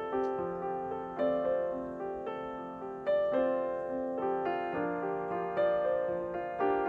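Background piano music: soft, unhurried notes, each struck and left to fade, in a gentle melody.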